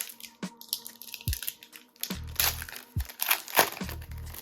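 Background music with a steady bass beat, over the crinkling and tearing of a trading-card pack's foil wrapper being opened by hand.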